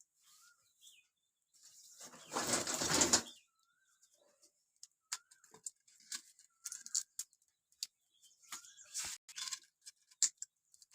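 Birds chirping in short, scattered calls through the second half, mixed with small clicks, after one brief loud rustling burst about two seconds in.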